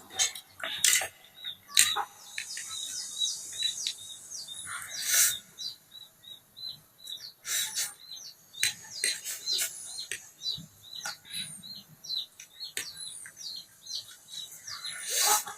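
Small birds chirping over and over in short, quick downward-sliding notes. A few louder, brief crackling noises break in, the biggest about five seconds in and near the end.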